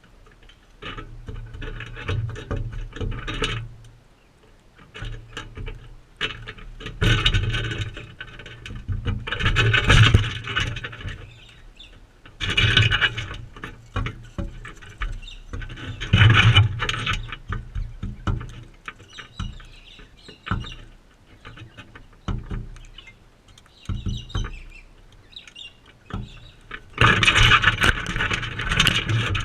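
Crimson rosellas feeding right beside the microphone: scraping, knocking and scuffling at the feeder in irregular loud bursts a few seconds apart, with quieter scratching between.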